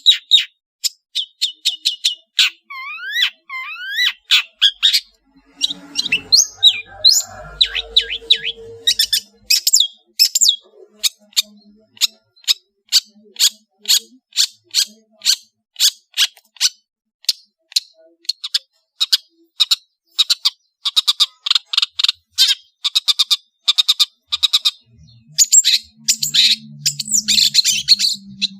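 Long-tailed shrike (cendet) singing a fast, varied song of sharp, rapidly repeated high chirps and trills, with a run of looping whistled slurs a few seconds in.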